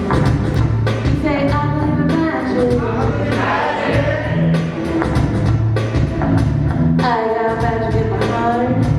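Live electronic pop song: a lead voice sings a melody over a synth backing track with a steady beat and sustained bass notes.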